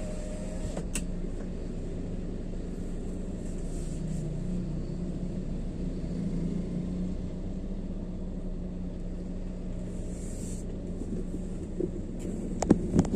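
Steady drone of a road vehicle being driven: engine and road noise with a constant low hum. A few short, sharp knocks near the end.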